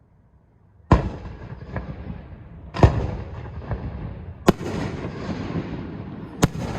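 Aerial fireworks shells bursting: four loud booms about two seconds apart, the first about a second in, with fainter cracks between them and a rumbling echo after each.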